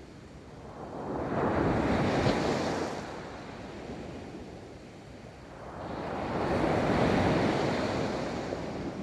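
Ocean waves breaking on a beach, two waves washing in, at about 2 s and 7 s, each rising and falling away, with wind buffeting the microphone.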